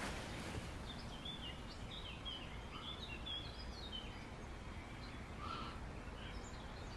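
Faint birds chirping: a quick run of short high chirps starting about a second in and lasting a few seconds, with a few more later, over a low steady outdoor background hum.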